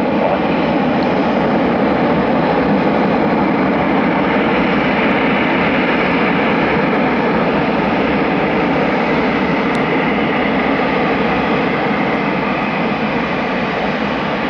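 Loud, steady jet noise from a Eurofighter Typhoon's twin turbofan engines, easing off slightly near the end.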